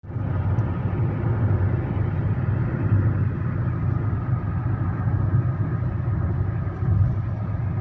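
Steady low rumble of a vehicle running on the road, engine and road noise without change.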